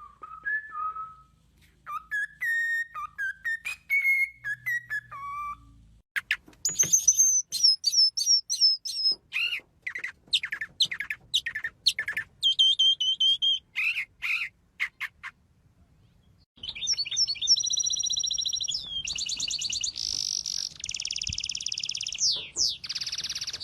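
Several different birds calling in turn: first a run of clear whistled notes, then a series of sharp repeated chirps, and from about two-thirds of the way in a fast, high trilling song.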